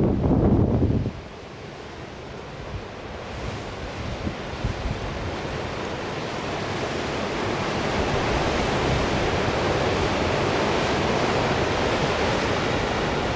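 Strong wind buffeting the microphone with a heavy rumble that cuts off about a second in, then the rush of sea surf swelling gradually and holding steady.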